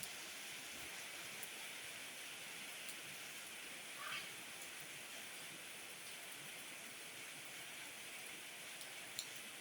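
Steady rain falling. A brief higher-pitched sound comes about four seconds in, and a single sharp click near the end.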